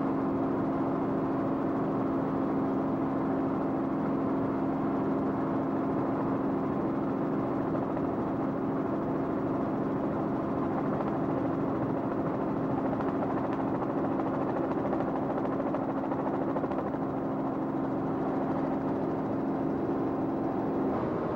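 Aircraft engine droning steadily, heard from on board the plane or helicopter filming the aerial footage: an unbroken low hum with a steady pitch over a wash of engine noise, which cuts off right at the end.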